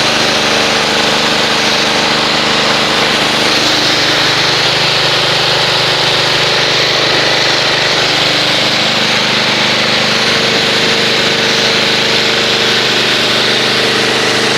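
Pressure washer running steadily while rinsing a car, its motor hum under a constant hiss of spraying water.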